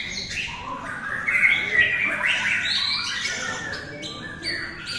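Several white-rumped shamas (murai batu) singing over one another, with many overlapping whistled phrases of quick rising and falling notes.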